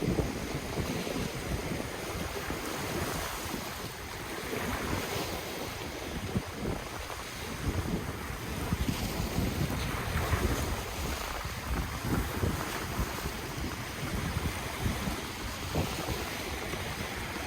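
Ocean waves washing on the shore, a steady surging hiss that swells and ebbs, with wind buffeting the microphone in uneven low gusts.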